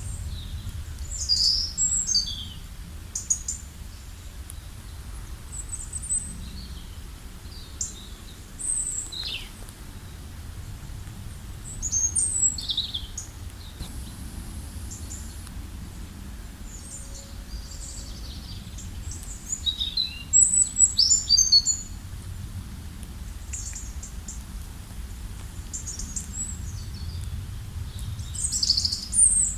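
Several songbirds chirping and trilling in short high-pitched bursts, the busiest spells about a second in, around twelve seconds, around twenty seconds and near the end, over a steady low rumble.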